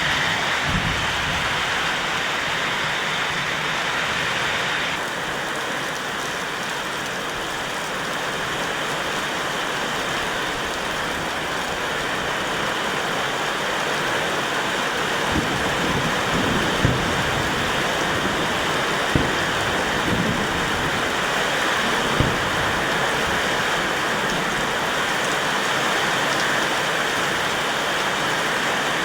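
Heavy rain pouring steadily, with a few sharp knocks of drops or objects striking a surface around the middle.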